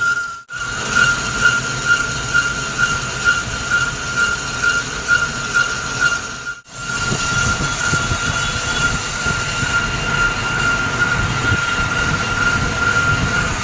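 Metal lathe turning a steel part, with a steady high-pitched cutting whine over machining noise. The whine pulses about twice a second during the first half. The sound cuts out briefly twice, near the start and about halfway through.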